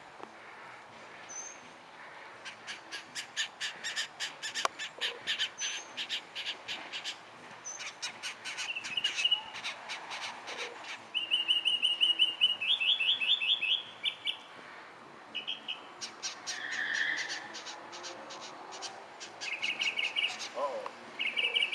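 Small birds chirping in fast runs of short, sharp chirps, with louder clear repeated notes about halfway through and again near the end.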